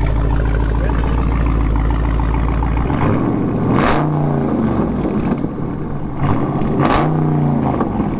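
Car engine running steadily, then revved twice, about three seconds apart, each rev rising and falling in pitch.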